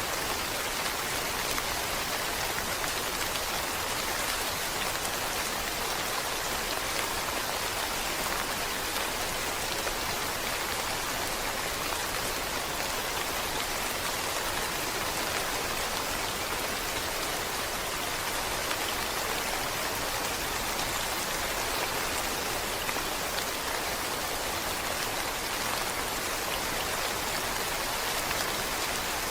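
Steady rain, an even hiss of many falling drops that holds the same strength throughout.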